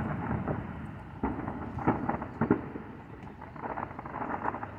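Fireworks going off: four sharp bangs within about a second and a half, over a steady low rumble.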